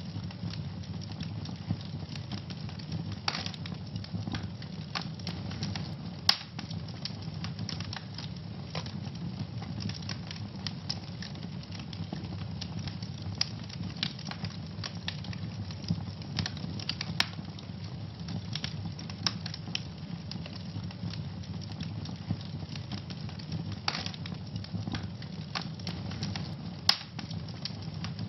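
Wood fire burning in a fireplace: a steady low rumble of flame with irregular crackles and occasional sharper pops from the burning logs.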